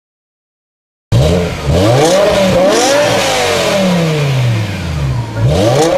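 After a second of silence, a BMW coupe's engine cuts in loud and is revved several times through its quad exhaust. Its pitch rises and falls with each blip, with a long slow fall near the middle and another rev near the end.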